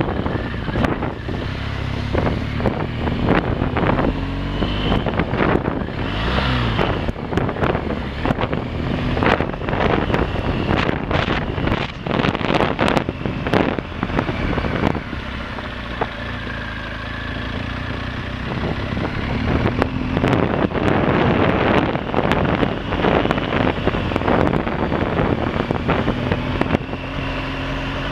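Motorcycle engine running on a ride, its pitch rising and falling with the throttle, with wind buffeting the microphone and many short sharp knocks.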